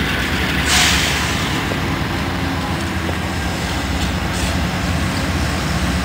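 Passenger train rumbling steadily on the tracks as it comes in to stop, with a short hiss about a second in.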